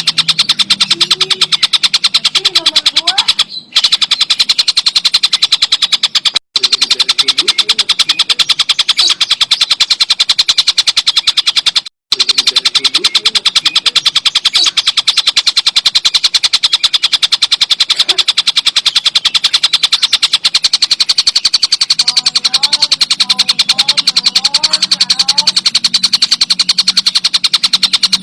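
Tengkek buto bird song played as a training recording: a fast, even rattling trill that carries on steadily, cutting out briefly three times.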